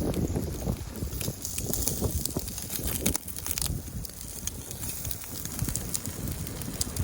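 Campfire crackling with scattered sharp clicks and knocks over an uneven low rumble.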